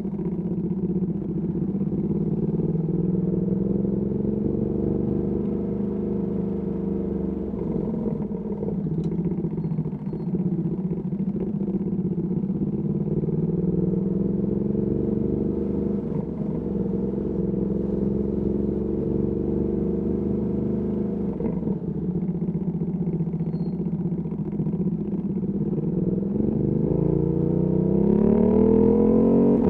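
Ducati Panigale V2S V-twin engine through a Termignoni exhaust, running at low revs with its pitch rising and falling gently, then revving up steeply near the end.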